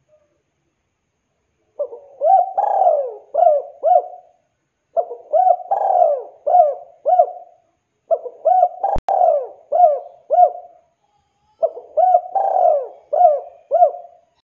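Spotted dove (tekukur) cooing: four repeated phrases of several coo notes, about three seconds apart. A single sharp click about nine seconds in.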